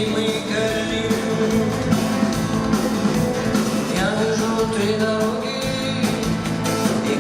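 Live band playing a rock song at a concert, loud and steady, with a voice singing over it.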